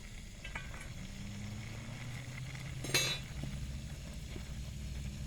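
Water running through a just-opened underground supply line and meter, a low steady hum, with a short burst of hiss about three seconds in; the flow is water escaping at a leak in the line.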